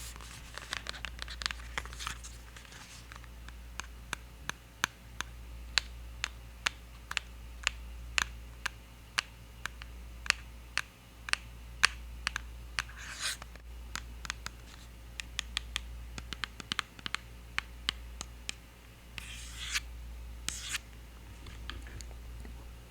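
Sharp, irregular taps and clicks on a NYX Epic Wear waterproof eyeliner, about one or two a second, with a few brief scratching sounds in between, made as ASMR triggers.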